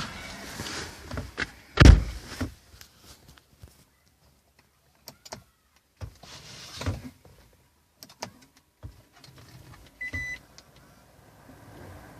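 A loud thump about two seconds in, then scattered clicks and knocks with quiet gaps between them. A short electronic beep comes about ten seconds in.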